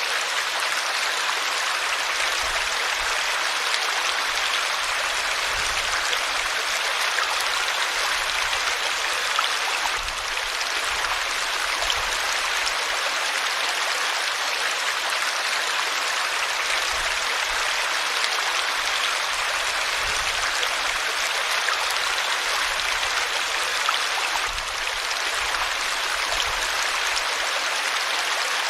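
River water flowing steadily over rocks, an even rushing hiss with no breaks.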